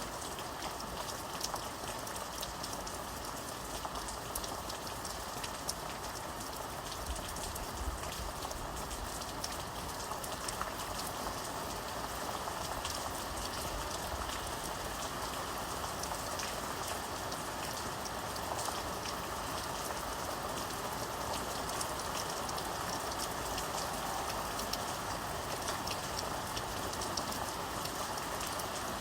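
Steady rain falling, a dense wash of raindrops with many small individual drop ticks, even and unbroken throughout.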